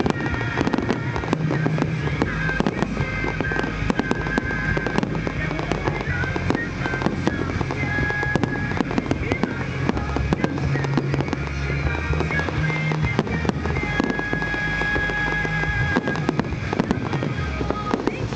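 Fireworks display: a dense, continuous run of shell bursts, bangs and crackles, over music with held notes and a steady bass.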